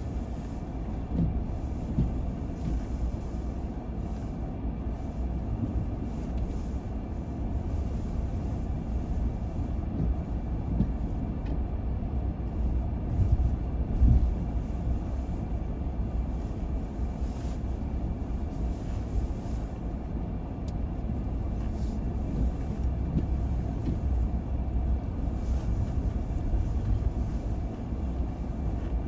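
A car driving along a road: steady low rumble of tyres and engine, with small bumps and one brief louder knock about halfway through.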